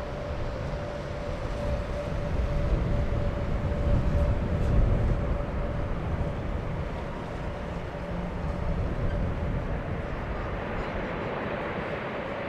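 Jet airliner engines rumbling with a steady whine, growing louder a couple of seconds in and easing off after about five seconds.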